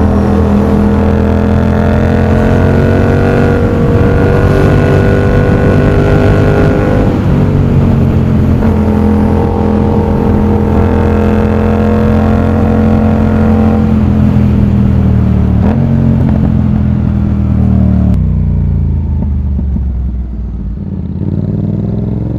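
Yamaha MT-07's parallel-twin (CP2) engine through an aftermarket exhaust, under way with the revs climbing and dropping a few times, then falling away as the bike slows near the end.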